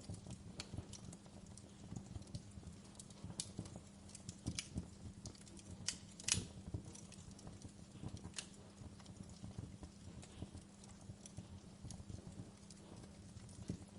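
Wood fire crackling in a fireplace: irregular sharp pops and snaps over a low steady hiss, with one louder pop about six seconds in.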